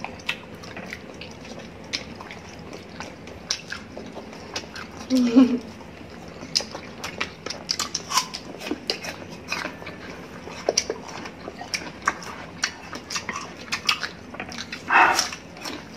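Close-miked eating: many sharp clicks of biting, chewing and lip smacking as people eat roast chicken and crisp apple slices. A short voiced murmur comes about five seconds in and another near the end.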